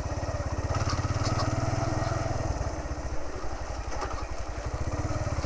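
Motorcycle engine running at low revs, a steady rapid pulse that eases off briefly about halfway through and then picks up again.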